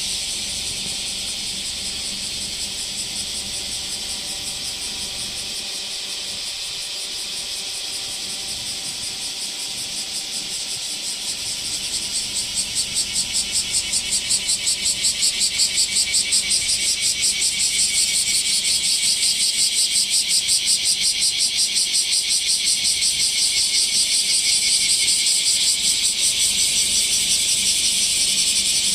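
Cicadas buzzing in a loud chorus, high-pitched. About halfway through it swells and turns into a fast, even pulsing, then cuts off suddenly.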